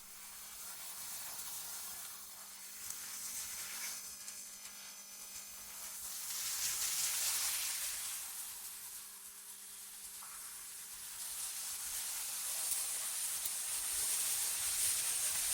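Synthetic wind ambience: an airy, high hiss that swells and fades in slow waves, loudest about seven seconds in and again near the end, over a faint steady low hum.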